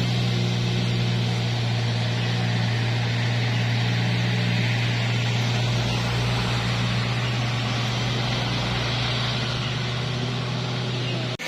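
Heavy truck engine running with a steady low drone over road noise, with a brief dropout near the end.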